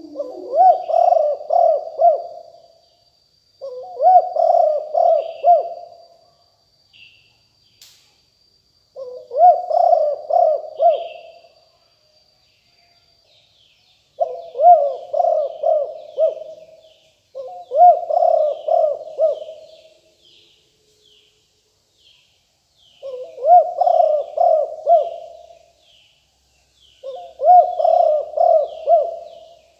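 Spotted dove cooing: seven repeated phrases, each of several quick coos and a few seconds apart. Small birds chirp faintly in the background.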